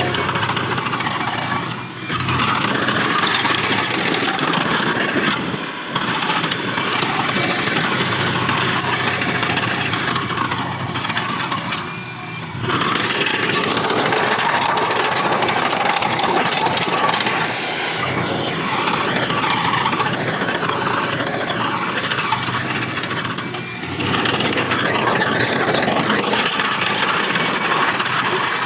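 Heavy earthmoving machinery at work, a bulldozer's diesel engine and steel tracks, making a continuous dense mechanical clatter with a few brief dips in loudness.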